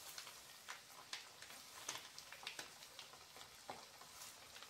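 Faint sizzling of diced sausage frying in a wok, with scattered small crackles and pops.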